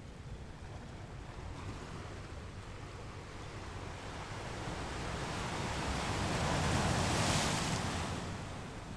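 Ocean waves washing onto a shore. The surf noise builds slowly, swells to a peak about seven seconds in as a wave breaks and rushes up the beach, then ebbs away.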